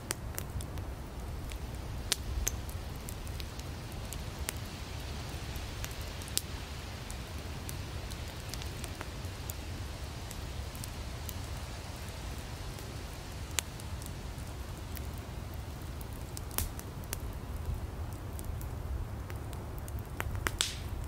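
Wood campfire burning: a steady low rumble and soft hiss, with scattered sharp crackles and pops from the firewood every few seconds.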